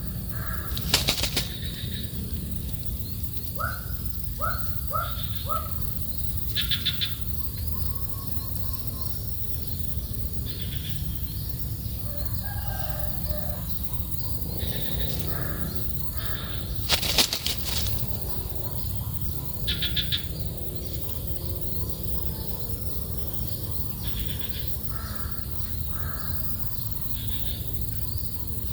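Birds calling in short, repeated high notes, with a quick run of four falling notes a few seconds in. Loud flutters of wingbeats come about a second in and again around seventeen seconds in, over steady low background noise.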